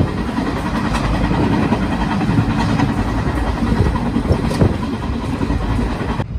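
Steady rumble and rattle of a moving passenger train, heard from inside the coach, with scattered knocks. It cuts off suddenly near the end.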